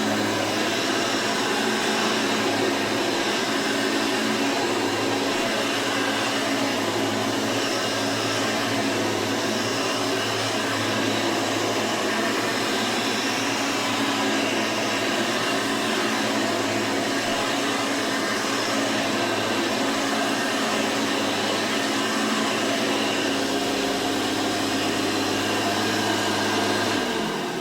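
Hoover Elite 350 upright vacuum cleaner running steadily with an even hum and airy hiss. Near the end it is switched off and the motor winds down.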